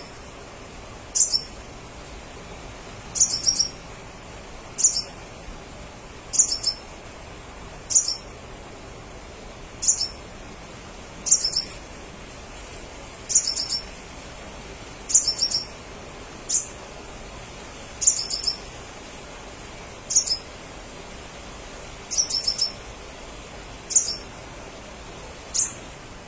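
Crimson sunbird calling: short, high, sharp calls repeated about every one and a half to two seconds over a faint steady hiss.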